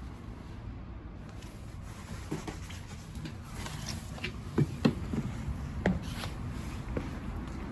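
A few light knocks and clicks over a low, steady background rumble.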